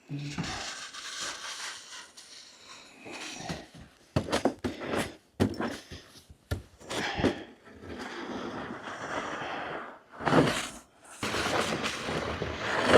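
Snow being shoveled and packed down: crunching scrapes and dull thuds from a snow shovel and boots in the snow, in a run of separate strokes with short pauses between.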